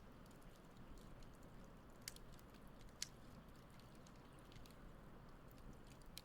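Wood campfire crackling faintly: scattered small ticks and pops, with two sharper pops about two and three seconds in, over a low steady hiss.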